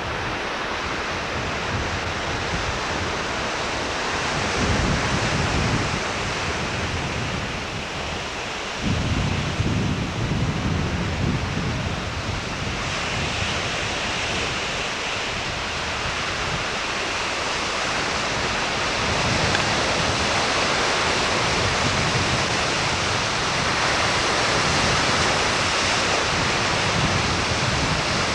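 Steady rushing hiss with low rumbling gusts, like wind buffeting a camcorder microphone, stronger twice early on and a little louder again in the second half.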